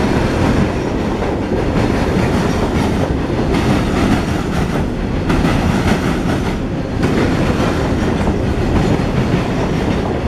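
CSX grain train's covered hopper cars rolling past at close range: a steady rumble of steel wheels on rail, with clickety-clack as the wheels cross the rail joints.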